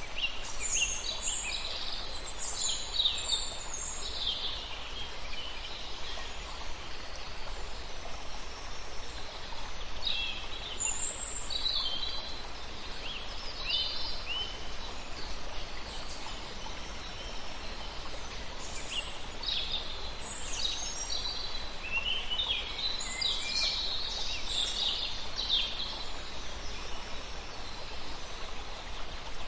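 Small birds singing in bouts of quick, high chirps and trills, with pauses between bouts, over a steady background hiss.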